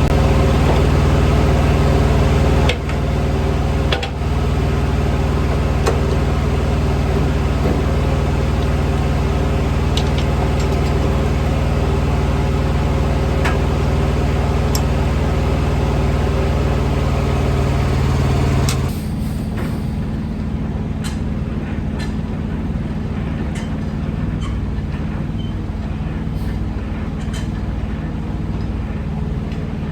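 Heavy truck running, a steady low drone with a few faint clicks; about two-thirds of the way through the sound drops suddenly to a quieter, lower running.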